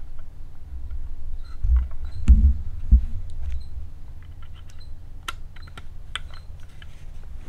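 Small clicks and taps of hands working the plastic parts of a BMW DISA intake valve, with two louder bumps about two and three seconds in.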